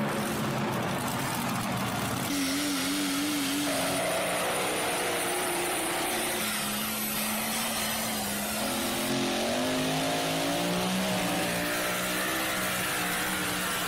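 Super modified four-wheel-drive pulling truck's engine running at high revs, its pitch wavering, then climbing about two-thirds of the way through.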